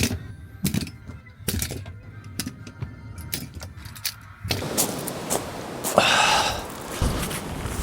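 A string of sharp clicks and knocks over faint music; then, a little past halfway, strong wind buffets the microphone, with one loud gust near the end.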